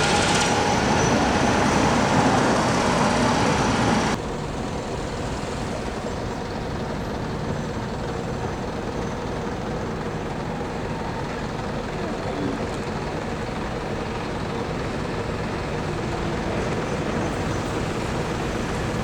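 Steady outdoor vehicle traffic noise. It drops suddenly about four seconds in to a quieter, even wash of street sound.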